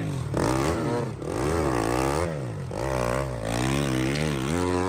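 Dirt bike engine revving up and down over and over, about five rises and falls in pitch as the throttle is worked.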